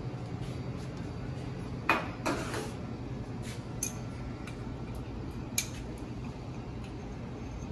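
Kitchen utensils clinking and scraping against dishware as recipe ingredients are measured and mixed: a few scattered clinks, the loudest about two seconds in, over a steady low hum.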